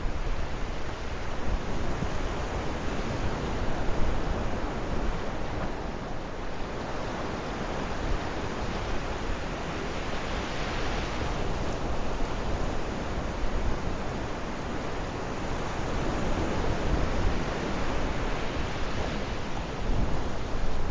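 Sea waves washing onto the shore: a steady rush of surf that swells once about halfway through, over a low wind rumble.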